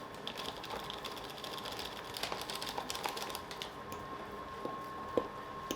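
Rapid light clicking and scraping of a utensil stirring sticky pumpkin dough in a mixing bowl, thinning out after about three and a half seconds, with a single louder knock about five seconds in.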